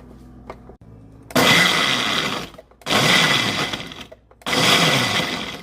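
Blender pulsed in three loud bursts of about a second each, with short pauses between them, chopping Oreo cookies into ice cream; a crunching, shattering noise runs under the motor.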